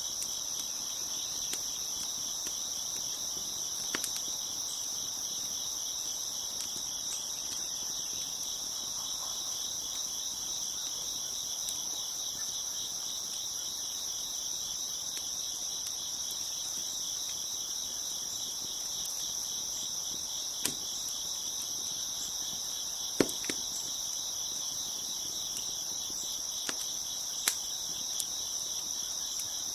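Crickets chirping steadily in a dense night chorus. A wood fire crackles now and then: a few sharp pops, the loudest about two-thirds of the way through.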